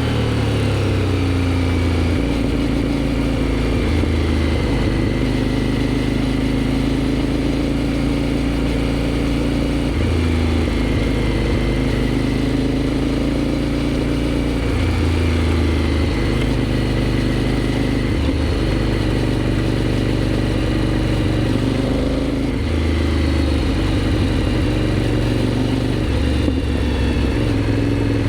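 Aprilia Shiver 750's V-twin engine through a GPR aftermarket exhaust, running under way at a fairly steady engine speed. The revs fall just at the start, then rise and drop again about two-thirds of the way through.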